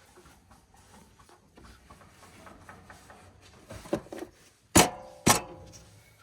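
Faint scattered clatter, then a sharp knock and two loud knocks about half a second apart near the end, the last leaving a brief ringing.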